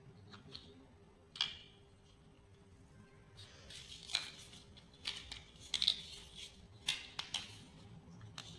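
Small plastic building bricks clicking and snapping together, a series of sharp irregular clicks that bunch up in the second half.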